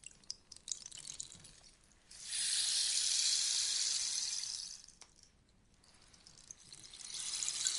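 Rainstick being tipped, its pellets cascading with a rain-like pattering: a few scattered ticks at first, then a dense pour from about two seconds in that fades out around five seconds, and a new pour starting near the end.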